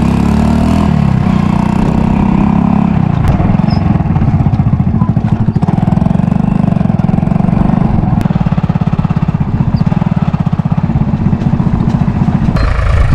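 Tractor engine running steadily with a fast, even pulse; the sound changes abruptly near the end.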